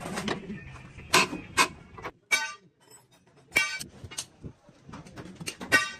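Sharp metal knocks and clangs at an uneven pace, about five strikes, one of them ringing briefly, over a low rumble. Typical of hammer work on truck steel.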